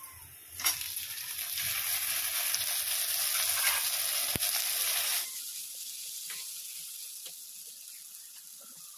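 Chopped tomatoes dropped into hot mustard oil and frying onions in a steel kadhai: a sharp clack as they go in, then a loud sizzle for about four seconds that drops off abruptly to a quieter sizzle. A steel spoon scrapes and taps as they are stirred.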